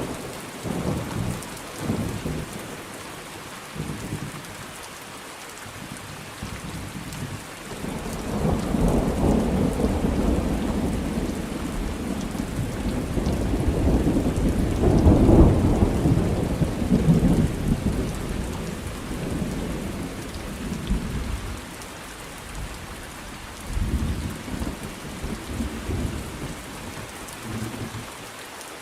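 Thunderstorm: steady rain with rolling thunder. A long rumble builds from about eight seconds in, peaks around the middle and fades out, with shorter rumbles near the start and again near the end.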